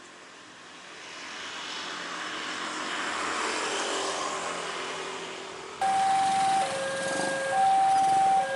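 An approaching train swells as a rising rush of noise, then cuts off abruptly to a two-tone warning signal that alternates between a higher and a lower tone, each held just under a second.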